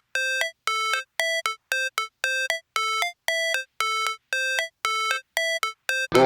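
Repeating synthesized beeps, about two a second, each a held tone that steps up in pitch at its end, with a short blip between some of them. Just before the end, full electronic backing music comes in.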